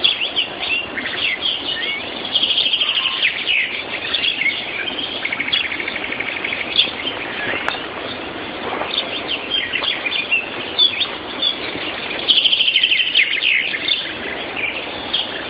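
Morning chorus of many songbirds singing at once, heard through a mobile phone's microphone, which cuts off the highest notes. A fast trill of rapidly repeated notes stands out about two seconds in and again near the end.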